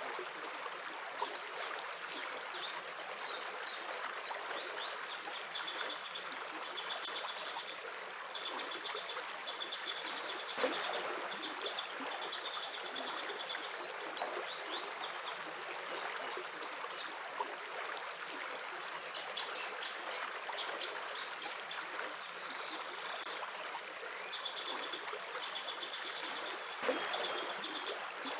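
A stream of water flowing steadily, with songbirds chirping over it in repeated short calls and quick trills that come in runs and pause.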